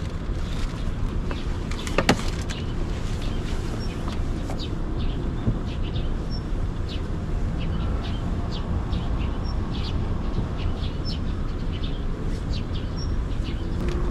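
Small birds chirping, short high calls scattered throughout, over a steady low rumble. One sharp knock about two seconds in.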